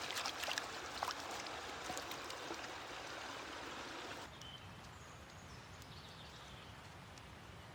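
Mountain creek running, a steady rush of water, with a few small splashes and clicks in the first second or so; it turns quieter about four seconds in.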